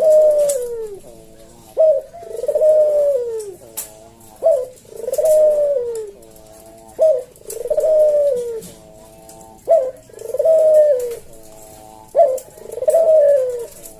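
Puter jawa dove cooing at a slow, even pace: each phrase is a short sharp note followed by a longer coo that falls in pitch, repeated about every two and a half seconds.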